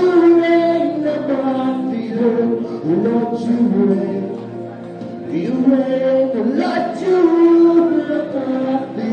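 Gospel song being sung: long held notes, with slides up into several of them.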